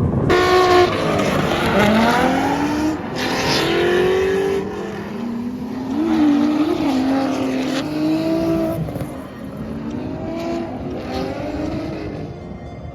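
A car engine revving hard, its pitch sweeping up and down again and again. It is loudest at the start and fades toward the end.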